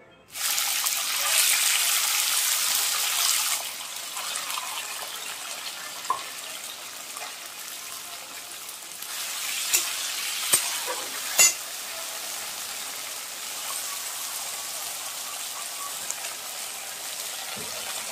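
Washed chickpeas frying in hot oil in an aluminium kadhai. The sizzle starts suddenly less than a second in, is loudest for about three seconds, then settles into steady frying, with a few sharp taps of the spatula against the pan around the middle.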